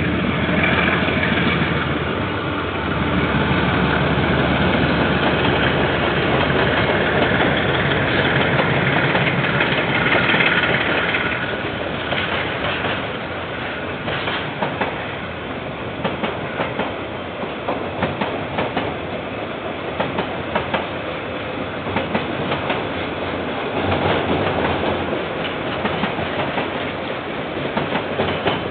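Freight train rolling past, heard through a security camera's microphone: loudest for the first ten seconds or so, then a steady rolling rumble with the repeated clickety-clack of wagon wheels over the rail joints.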